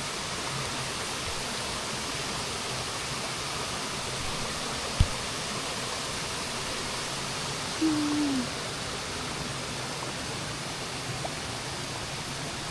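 Steady rushing of a waterfall, with a single sharp click about five seconds in and a brief low tone near eight seconds.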